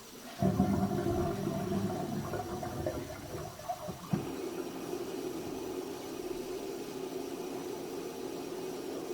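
Water flushing into a drain line: a loud rush that starts suddenly, then, after a knock about four seconds in, settles into a steadier, quieter running.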